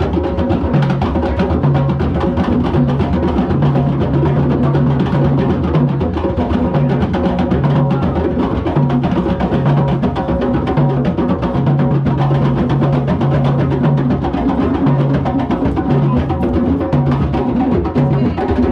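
Drum circle: many hand drums played together in a dense, steady rhythm, with a low tone pulsing underneath in short repeated blocks.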